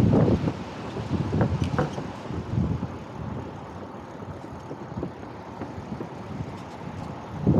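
Fat-tyre e-bike being ridden: rolling tyre noise with scattered small knocks and rattles. Wind buffets the microphone at the start, dies down, and picks up again at the very end.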